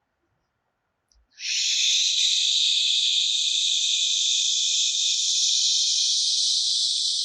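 A long, steady "shhh" exhalation starting about a second and a half in: the qigong healing sound for the liver, voiced as an unbroken hiss of breath while purging.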